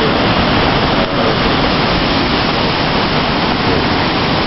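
Strong storm wind from Hurricane Ike, a loud, steady rushing noise, partly wind blowing across the microphone.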